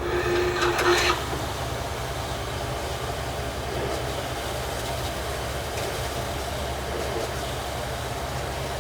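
Precor TRM 445 treadmill running at low speed, with a steady drive-motor hum and the clatter of the walking belt and rollers turning. The belt has just been given enough tension to start moving. A brief higher whine sounds in the first second.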